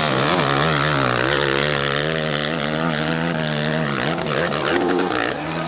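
Dirt bike engine revving hard, its pitch swinging up and down quickly with the throttle, then holding steadier.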